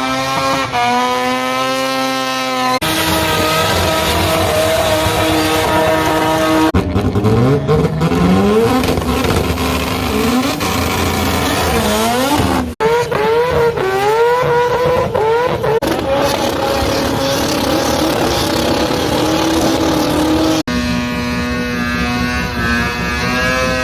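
Mazda rotary-engined cars running at high revs in a string of cut-together clips. Some held steady, some rising sharply in pitch as they accelerate hard through the gears, twice over in the middle.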